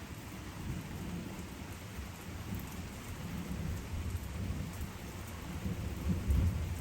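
Steady rushing noise like rain, with a heavy, uneven low rumble that grows louder near the end.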